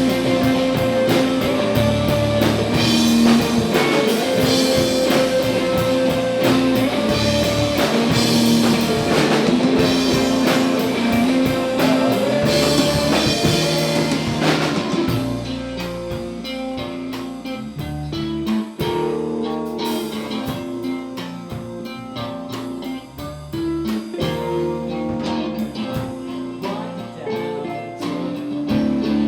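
A rock band playing live: electric guitar over a drum kit. About halfway through, the dense full-band sound drops to a quieter, sparser passage of guitar notes with lighter drumming.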